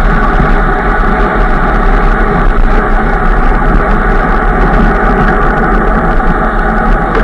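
Steady, loud rushing noise of a bike ride in motion: wind on the microphone mixed with road noise, with a faint steady hum.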